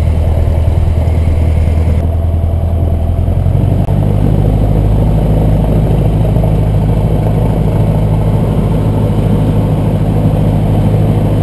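Cessna 150's Continental O-200 four-cylinder engine and propeller running at low power, heard from inside the cockpit. The engine speed steps up a little about three seconds in and then holds steady.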